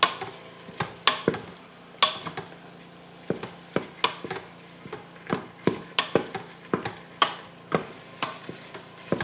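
A cooking spoon stirring browning ground beef, onions and peppers in an electric pressure cooker's pot, knocking against the pot in irregular sharp clacks about two or three times a second over a faint steady hum.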